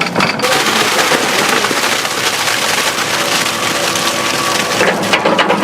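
Excavator at work: its engine hums steadily under a loud rushing, grinding noise. About five seconds in this turns into a fast rattling clatter.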